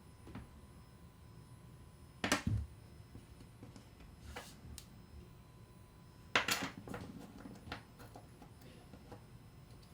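Small metal reel parts handled and set down on a hard work surface: two sharp clatters, about two and a half and six and a half seconds in, with a few light clicks between.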